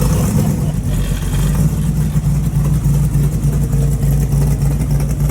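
Engine of a chromed-out Model T idling steadily and evenly, just after firing right up without needing any cranking.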